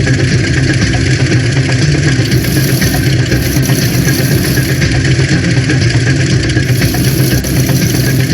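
Engine running steadily, a constant low drone that holds the same speed throughout.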